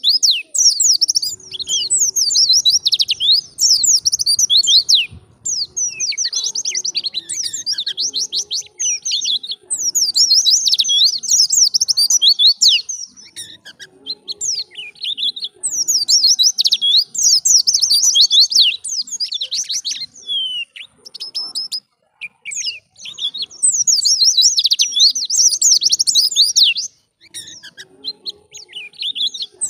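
White-eye (pleci) singing in a lively wild-style song: long runs of rapid, high-pitched twittering and chirps, each lasting a few seconds and separated by short pauses.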